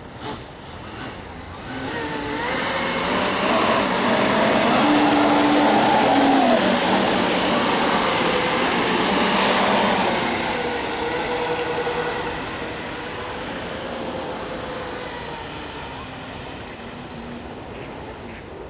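Electric jet kayak under way: the motor's whine, shifting in pitch, over the rush of the water jet. It builds about two seconds in, is loudest through the middle, then slowly fades.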